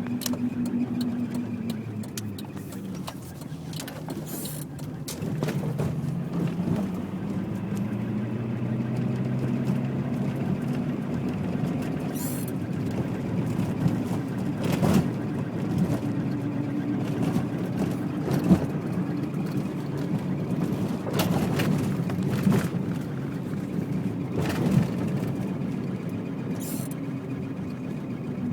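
1993 Acura Integra (DA9) being driven, heard from inside the car: steady engine and road noise, the engine tone falling and rising a few times, along with the constant noise that the owner hears above about 15–20 mph from the driver's side, cause unknown to him. A few brief sharp sounds stand out over it.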